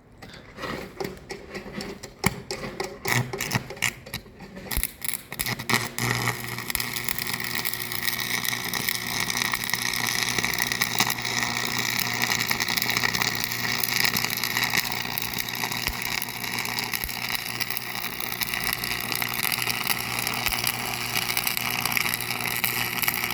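A few seconds of scattered clicks and knocks, then a machine starts running about six seconds in and runs on steadily with a constant hum.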